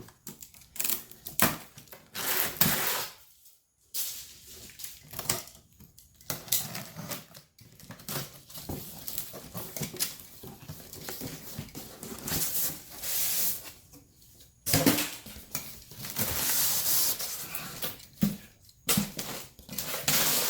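A cardboard shipping box being cut open with a knife and pulled apart by hand: a run of irregular scraping, tearing and rustling sounds with sharp clicks and rattles as packing tape is slit and the flaps and packing are handled.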